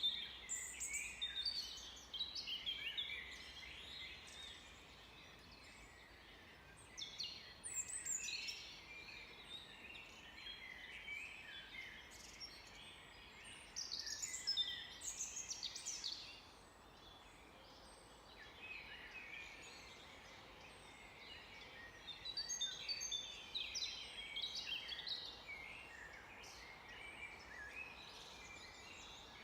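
Several songbirds singing and calling together in bouts of quick, high chirps and trills, swelling every few seconds and dropping back between.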